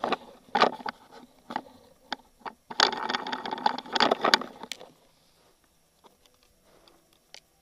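Irregular scraping and rustling with sharp clicks for about five seconds, like something being handled, then near quiet with a few faint ticks.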